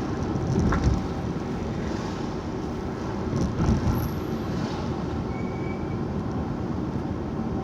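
Steady road noise of a car being driven: a low, even rumble of tyres and engine heard from inside the car.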